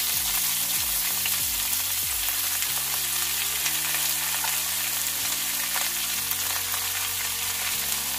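Hot oil sizzling with a steady frying hiss as freshly washed, chopped amaranth leaves go into a pan of tempered peanuts, cashews and dried red chillies.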